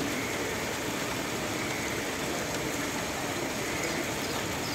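Heavy rain falling, a steady even hiss, with a few faint high chirps near the end.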